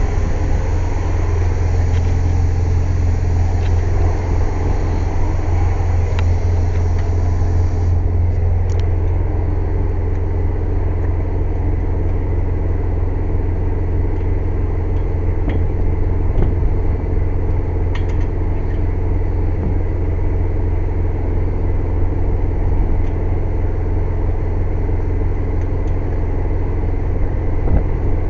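Air compressor running with a steady, loud low drone, with a few faint clicks over it.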